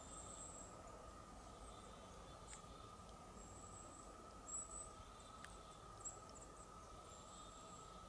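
Near silence with faint, very high-pitched short bird calls, chirping scattered through it several times over a faint steady hum.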